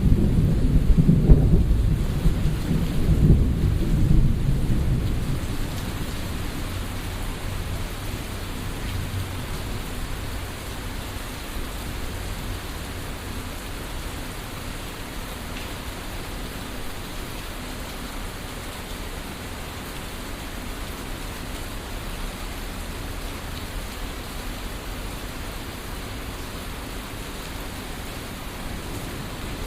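Thunder rumbling over steady rain. The rumble is loudest in the first few seconds and dies away by about five seconds in, leaving the even hiss of rain.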